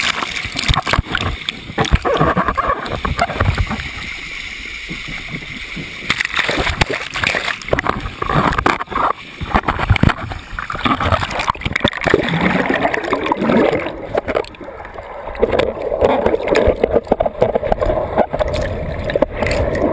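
Turbulent water splashing and gurgling in irregular surges, with voices heard at times.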